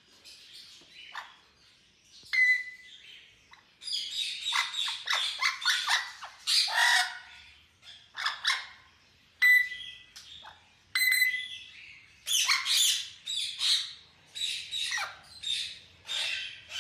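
Several parrots calling: short, harsh screeches and chirps with a few clear whistled notes. The calls are sparse at first and come in quick, overlapping runs from about four seconds in.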